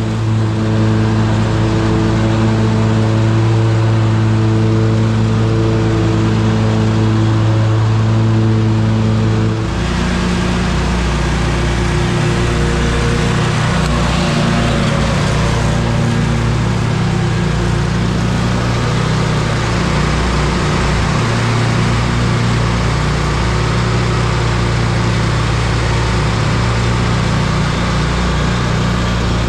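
Ride-on lawn mower engine running steadily at working speed. Its note changes suddenly about ten seconds in, then carries on with more rushing noise over the hum.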